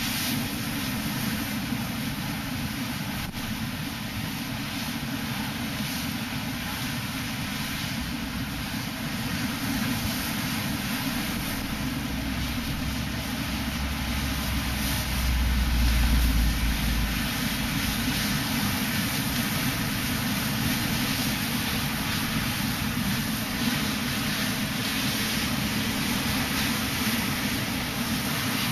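Strong wind and heavy surf: storm waves breaking and washing over harbour breakwaters, a steady rushing noise of wind and water. A louder low rumble swells about halfway through.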